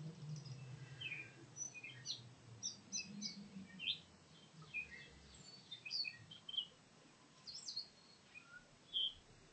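Wild songbirds chirping faintly: many short, high chirps and calls, scattered and irregular, some in quick little runs.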